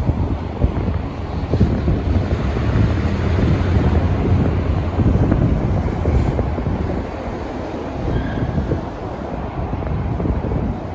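Wind buffeting a phone's microphone: a rough, fluttering low rumble that rises and falls in gusts.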